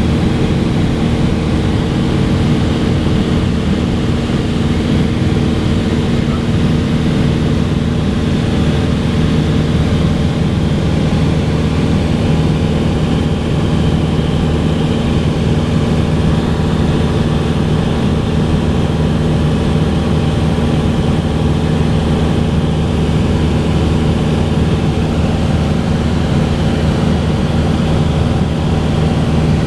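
Cessna 182 single-engine piston aircraft with its engine and propeller running steadily, a constant loud drone with no change in pitch.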